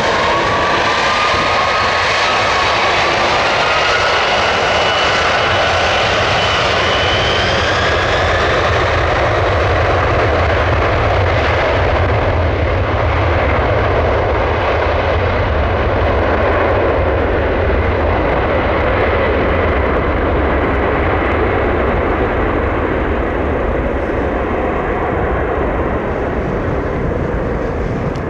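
Boeing 747-400 jumbo jet's four jet engines at takeoff thrust: a loud roar with a whine that rises in pitch over the first several seconds, then a deep rumble that slowly fades near the end.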